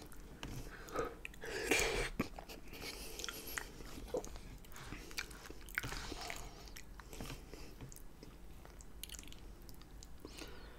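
Close-miked chewing of a mouthful of lasagna, with irregular crackly mouth sounds, loudest about two seconds in. A metal fork clicks and scrapes in an aluminium foil pan in between.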